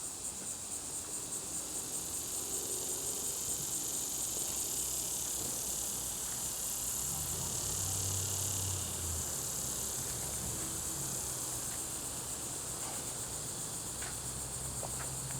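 A steady chorus of insects, a shrill high-pitched trill with a rapid pulse that swells slightly about halfway through, over a faint low hum.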